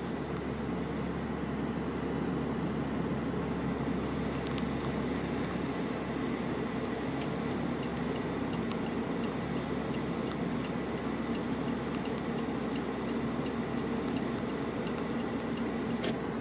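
A vehicle running steadily, heard as an even drone, with a regular light ticking that starts about six seconds in and carries on.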